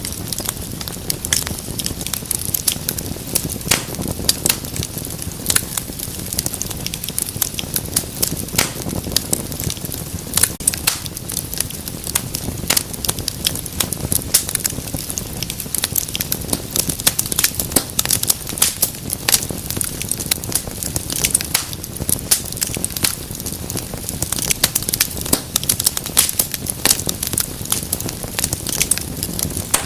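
Wood fire crackling steadily, with frequent irregular sharp pops and snaps over a low rumble of the flames.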